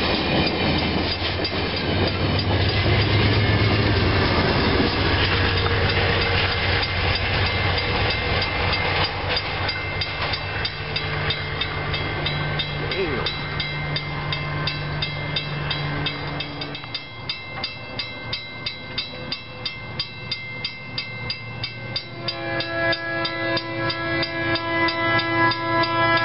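Amtrak passenger train rolling past a grade crossing, its wheels rumbling on the rails for about sixteen seconds before the sound drops away. A crossing bell strikes steadily throughout, about two to three times a second. In the last few seconds a steady chord of several tones grows louder.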